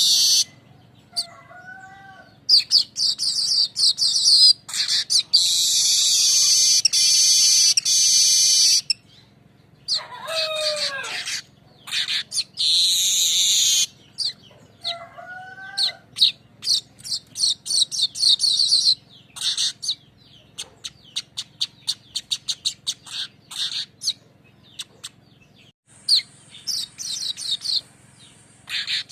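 Weaver bird (manyar) song: repeated bursts of high, buzzy, rattling chatter and trills, with rapid series of ticks and a few short lower swooping whistles between them.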